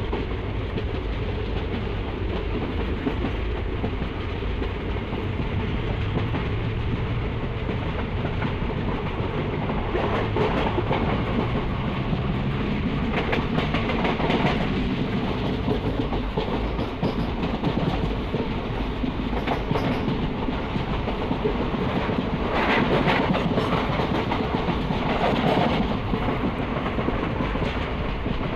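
Passenger train running along the line, heard from an open window of the moving coach: a steady rumble of wheels on rail, with louder bouts of clatter about halfway through and again near the end.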